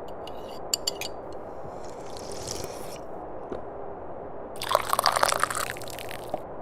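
Someone slurping tea in sips: a few small lip clicks at the start, a short sip about two seconds in, then a longer, louder slurp from about four and a half seconds in.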